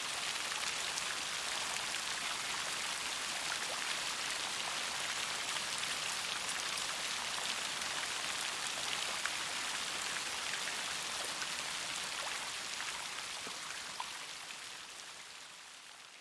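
Steady rainfall, a dense hiss with many single drops ticking through it, fading out smoothly over the last couple of seconds.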